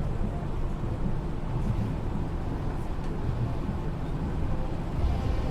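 Inside a car of the Okinawa Yui Rail straddle-beam monorail running between stations: a steady low rumble with a faint whine over it.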